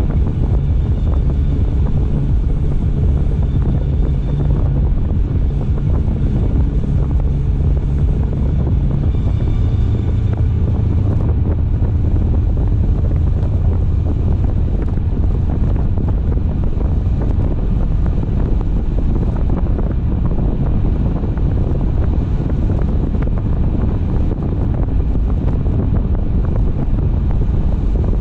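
Car driving on a road: steady engine and tyre rumble with wind noise on the microphone. The engine's low hum drops in pitch about nine seconds in.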